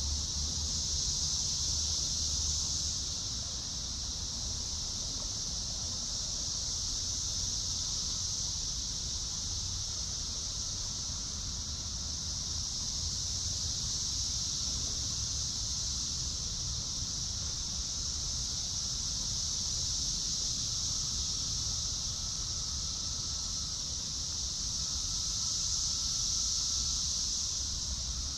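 Steady high-pitched chorus of insects, swelling slightly near the start and again near the end, over a low rumble of wind.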